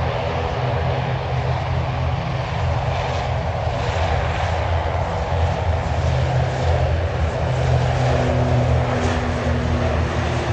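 The twin Pratt & Whitney PW127 turboprops of an ATR 72-500 at full takeoff power during the takeoff roll: a steady propeller-and-engine drone that grows slightly louder.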